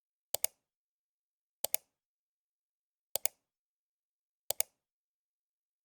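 Four sharp double clicks, one pair about every second and a half, with dead silence between them.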